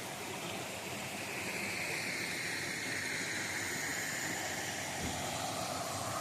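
Steady rush of flowing river water, with a faint high tone slowly falling in pitch through the middle.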